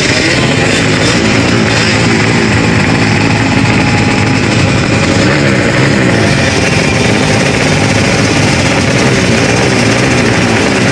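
Drag-racing motorcycle engines running loud and rough, their pitch rising and falling as they are revved again and again.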